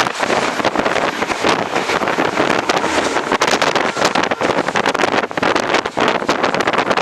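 Express train running at speed, heard from inside an ICF passenger coach: a steady loud rush of wind and rail noise with rapid, irregular clicks and knocks from the wheels on the track.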